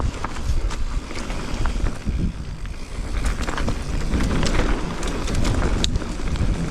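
Electric mountain bike riding over rocky trail: tyres rumbling over stones, with frequent sharp rattles and knocks from the bike, and wind buffeting the microphone.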